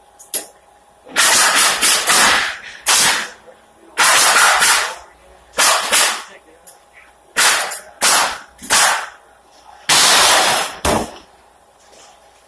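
Pneumatic nail gun firing nails into pallet boards: about seven sharp shots, some in quick runs of two or three, with short pauses between.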